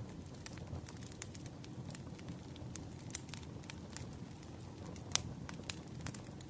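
Burning firewood crackling, with irregular sharp pops over a steady low rumble; the loudest pop comes about five seconds in.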